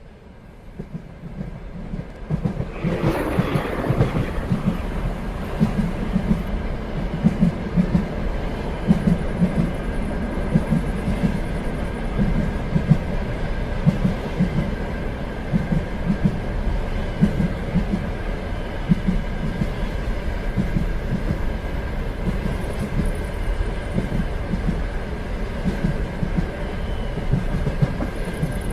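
Train running on rails, its wheels clicking over the rail joints in an uneven, repeating rhythm under a steady rumble, with a thin steady tone above. The sound fades in over the first few seconds, with a short louder rush about three seconds in.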